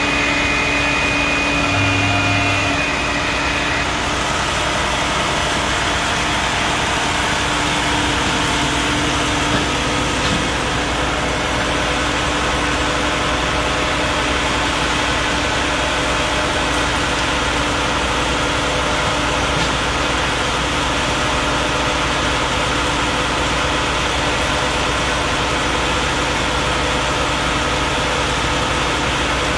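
A vehicle engine idling steadily, a continuous even hum.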